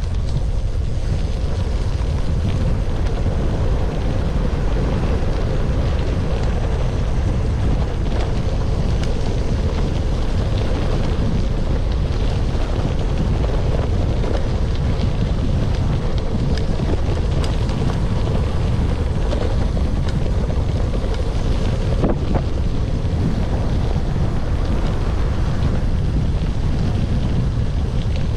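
Steady wind rumble buffeting the microphone of a camera on a moving gravel bike, over the rolling noise of the bike's tyres on a rough forest road.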